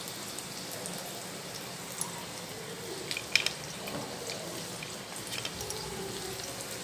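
Carrot slices frying in hot oil in a kadhai with cumin, ginger, garlic and green chilli: a steady low sizzle with scattered pops and crackles, the loudest a short cluster of crackles about three seconds in.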